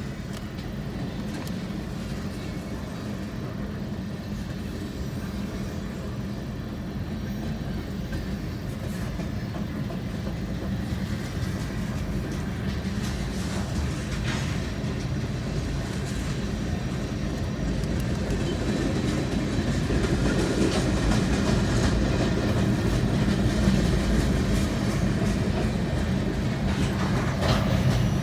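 Freight train cars rolling past on the track, a steady rumble of wheels on rail with occasional clicks, growing louder in the second half.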